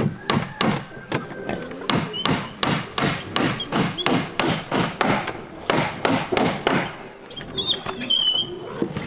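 Wood being struck hard again and again, about three knocks a second, stopping about seven seconds in, as in chopping or hammering timber.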